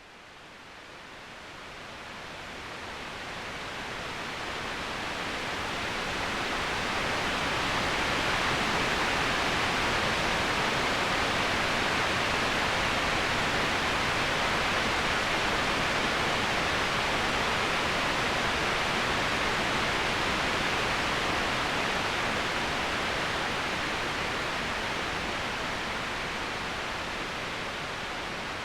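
Steady rush of flowing water, fading in over the first several seconds and easing off slightly near the end.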